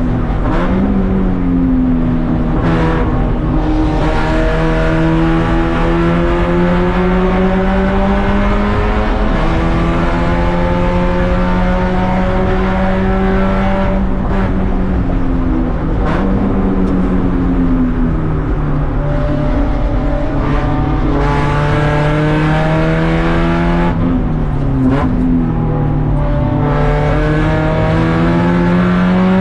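Race car engine under hard running, its pitch climbing through long pulls and dropping sharply several times at shifts and braking.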